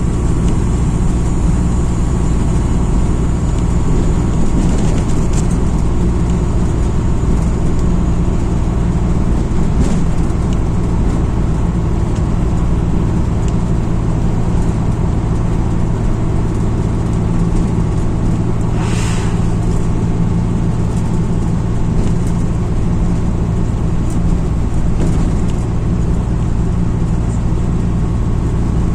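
MAZ-206 city bus heard from inside the cabin while driving: steady engine and road noise. There is a short hiss about two-thirds of the way through.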